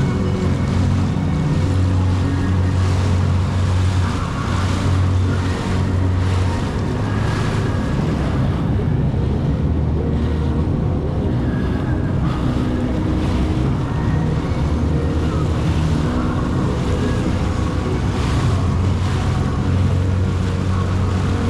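Jet ski engine running steadily while riding, with water spray splashing and wind buffeting the microphone.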